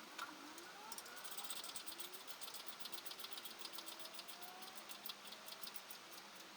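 Hand ratchet wrench clicking in quick runs, starting about a second in, with faint sliding tones beneath.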